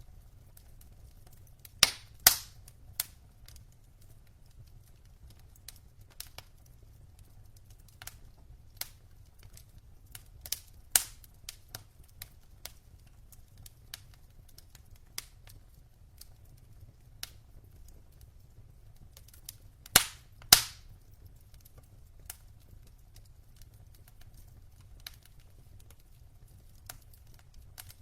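Wood fire crackling and popping as logs burn: scattered sharp snaps over a low steady rumble, with louder pops about two seconds in and again about twenty seconds in.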